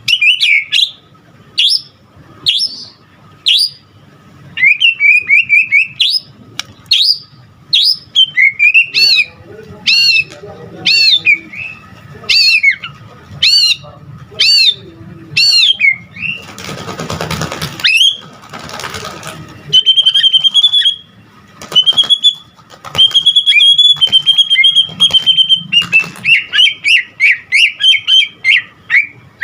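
White-rumped shama (murai batu) in full song: loud whistled phrases, repeated about once a second, with a harsh noisy stretch about two-thirds through, then fast trilled notes. This is the 'gacor' song packed with imitations of other birds that keepers play to prompt their own shamas to sing.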